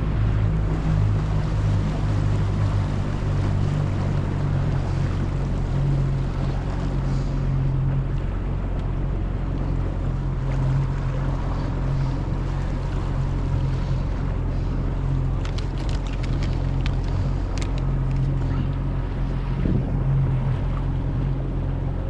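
A boat motor running steadily at an even pitch, with water and wind noise on the microphone.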